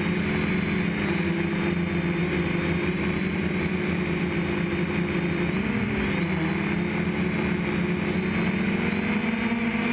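DJI F550 hexacopter's six motors and propellers running in flight, a steady multi-tone drone whose pitch dips and comes back up about six seconds in as the motor speeds change.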